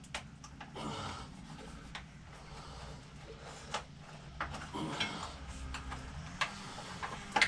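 Scattered light clicks and knocks of hand tools and small metal parts being handled during motorcycle disassembly.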